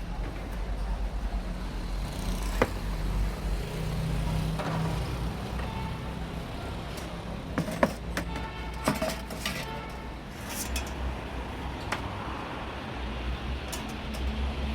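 Roadside traffic: vehicle engines rumbling steadily, with scattered sharp clinks and knocks and a brief pitched tone about eight seconds in.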